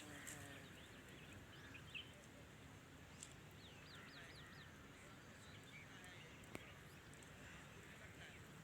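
Faint bird calls over a low steady background, with a quick run of about five short chirps near the middle.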